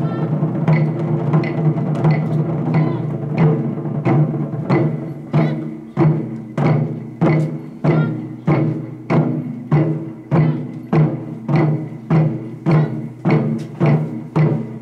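Japanese taiko drums played by an ensemble, struck hard in a steady rhythm. Dense hits at first, then from about four seconds in an even beat of about three strokes every two seconds.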